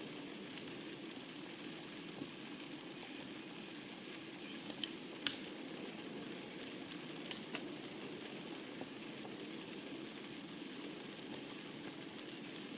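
Burning wood logs crackling in a fireplace: a steady soft hiss with sharp, scattered pops, more of them in the first half, the loudest a little over five seconds in.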